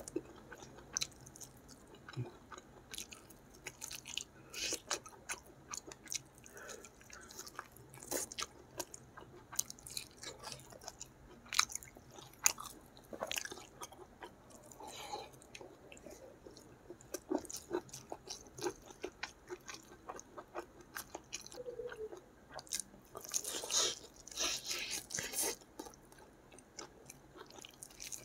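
Close-miked chewing and lip-smacking of a person eating chicken and rice by hand: irregular wet smacks and small clicks, with a denser, louder run of chewing a little over three-quarters of the way through.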